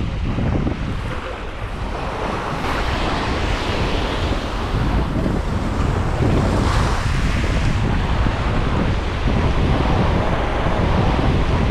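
Sea waves washing onto a beach, with wind buffeting the microphone in a steady low rumble.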